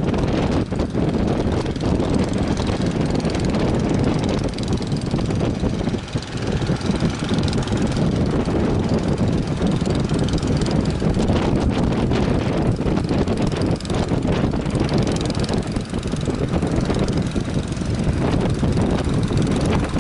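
A boat's motor drones steadily under strong wind rumbling on the microphone.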